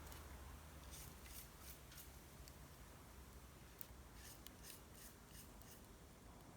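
Faint, irregular crackling and popping of a plum-wood fire burning, a dozen or so sharp little clicks at uneven intervals.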